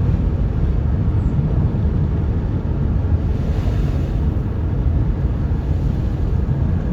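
Car driving: a steady low rumble of road and engine noise. A brief hiss rises and fades about three and a half seconds in.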